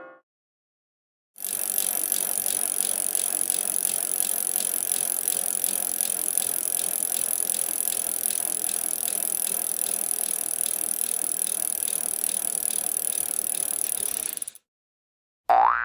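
A steady, fast mechanical clicking rattle that starts about a second and a half in and cuts off abruptly near the end.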